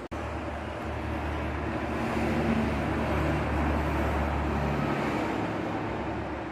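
Heavy road vehicle driving past: engine hum and road noise rising for about two seconds, then holding steady.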